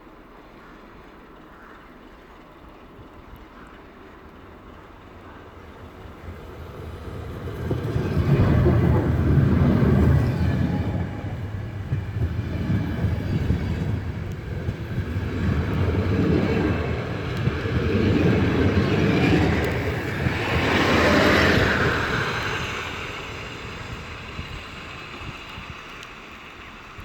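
InterRegio passenger train behind a CFR class 40 electric locomotive going by. Its noise builds from about seven seconds in and stays loud for some fifteen seconds: a rumble of wheels on rails that swells and eases in waves as the locomotive and coaches pass. It then fades away.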